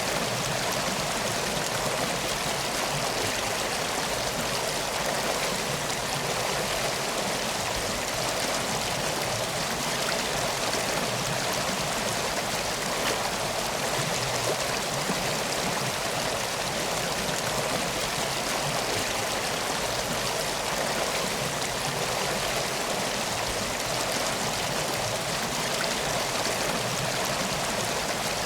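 Steady flowing water of a river or stream, an even rushing hiss without break.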